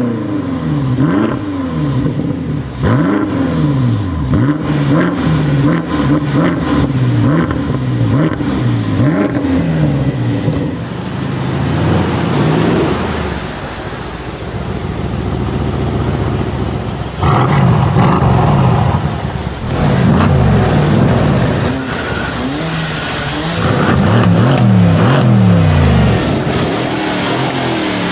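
High-performance car engine revved in a rapid series of short throttle blips, the pitch jumping up and falling back about once or twice a second. In the second half it runs again in longer, rising revs as the car pulls away hard.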